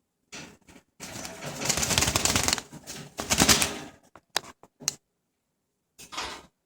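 Pet birds flapping and scrambling in a wire cage, wings beating and clattering against the bars in noisy bursts: a long burst about a second in, a shorter one past three seconds, then scattered clicks. The birds are startled by a laser pointer.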